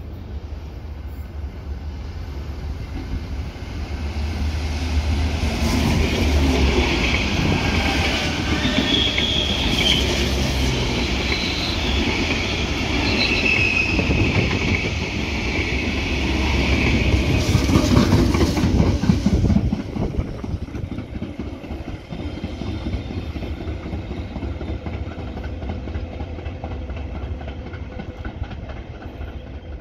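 A train passing on the rails, its wheels clicking over the rail joints, with brief high wheel squeal. It builds from about four seconds in, is loudest until about twenty seconds in, then drops away.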